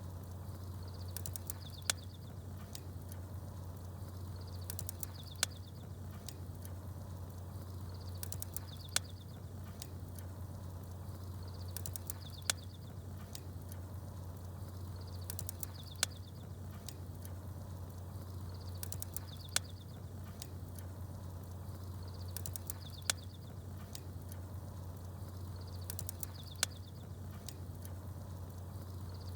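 Campfire crackling while small birds chirp. A short high chirping phrase and a single sharp pop come back together about every three and a half seconds, over a steady low hum.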